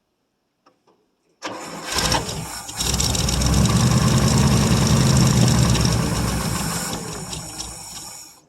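1959 International B120 pickup engine cranked on the starter, catching after about a second and running briefly on gas poured into the carburettor, then dying away near the end as that fuel runs out: it is not pulling fuel from the tank.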